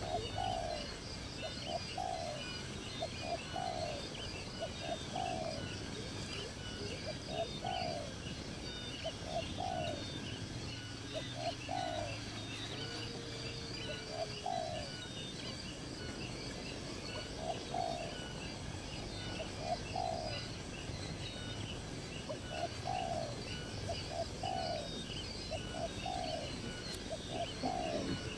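Birds calling: one bird repeats short, falling low calls, often in pairs, every second or two, over steady high-pitched chirping from other birds.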